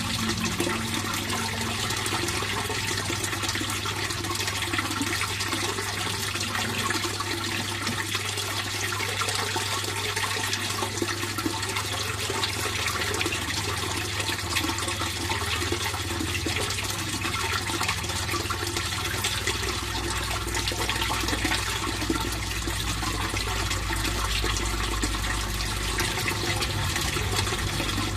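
Fish pond water flowing and trickling steadily, with a steady low hum underneath.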